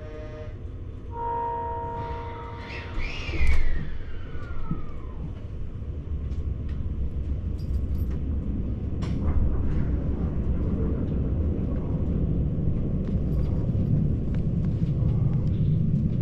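A JR Hokkaido 789 series 1000 limited express train departing, heard from aboard. A short chime of steady tones sounds first, then a descending squeal, then the train pulls away with a low running rumble that grows steadily louder.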